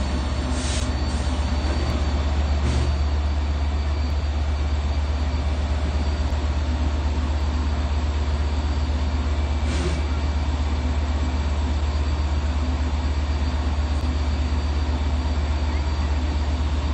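DM30AC diesel locomotives idling with a steady low rumble, with three brief hissing bursts in the first ten seconds.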